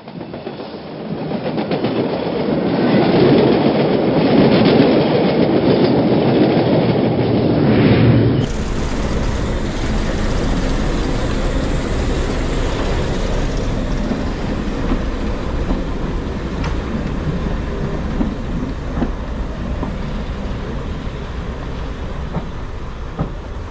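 A train running on rails, heard in two shots. For about eight seconds it is loud and noisy. After a sudden change it becomes a steadier, lower rumble with occasional wheel clicks.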